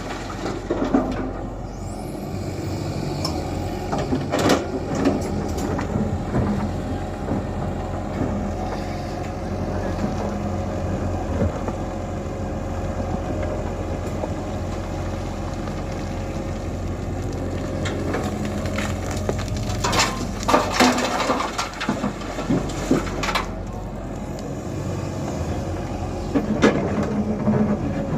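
Tata Hitachi EX120 crawler excavator's diesel engine running steadily, with a few loud knocks and clatters about four seconds in and again near twenty to twenty-three seconds in.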